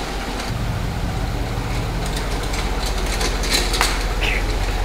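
Chevrolet Suburban engine idling with a steady low hum that firms up about half a second in, with a few light clicks near the end.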